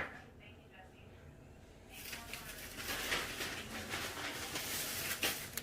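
Plastic packaging of fireworks crinkling and rustling as the packs are handled, starting about two seconds in after a short quiet stretch.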